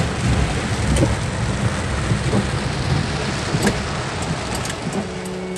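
Steady rain with scattered drips and splashes. Soft keyboard music comes in near the end.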